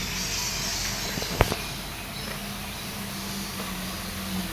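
Steady background noise with a faint low hum, broken by one sharp click about one and a half seconds in.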